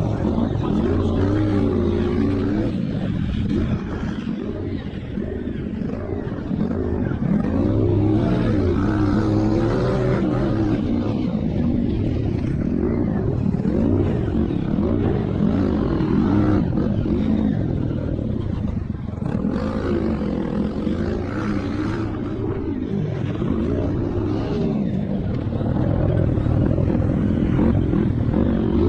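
Motocross bike engines running hard, their pitch rising and falling over and over as the riders open and close the throttle.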